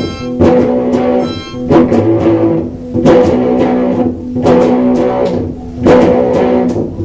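A rock band playing: guitar with bass guitar and a drum kit keeping a steady beat.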